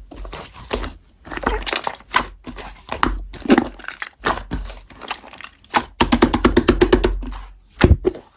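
Slime being squished and pressed by hand, with irregular wet pops and crackles and a quick run of small pops about six seconds in.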